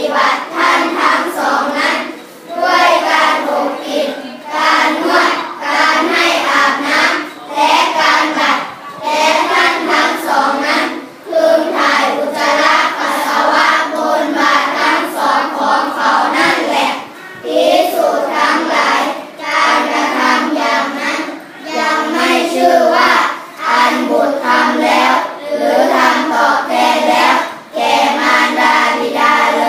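A group of young schoolchildren chanting a Buddhist sutra in unison, in short phrases separated by brief pauses every second or two.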